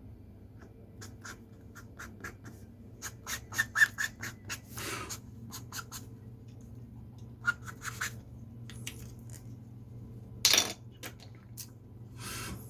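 Drawing strokes scratching on paper: a run of short quick strokes, with a few longer strokes about five seconds in, around ten seconds (the loudest) and near the end, over a steady low hum.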